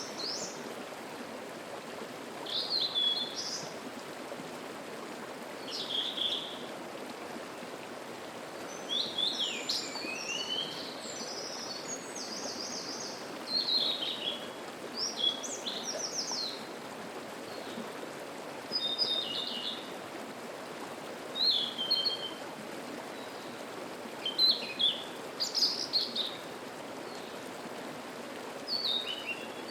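Songbirds singing short, high, chirping phrases every two to three seconds over the steady rush of a mountain stream.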